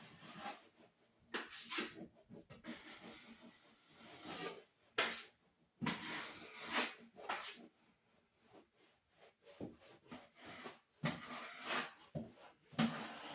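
Hand scrubbing and wiping of a surface: irregular rubbing strokes with a few light knocks.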